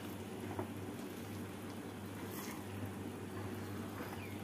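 Chickpea curry sizzling and bubbling in a frying pan on high heat as its leftover liquid cooks off, with a silicone spatula stirring through it. A steady low hum runs underneath.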